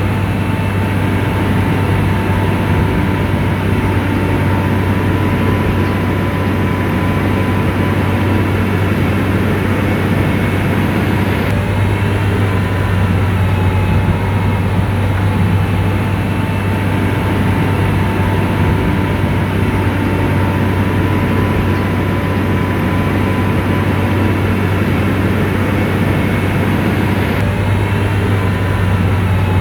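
SDLG motor grader's diesel engine running steadily under working load, a constant low drone with a faint steady whine above it.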